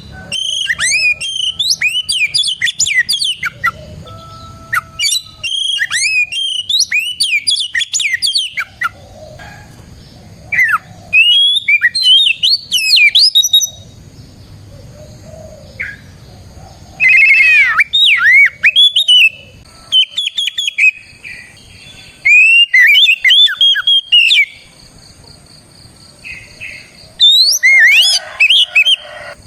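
Oriental magpie-robin (kacer) singing in full, loud song: phrases of quick whistled sweeps and chirps a few seconds long, broken by short pauses.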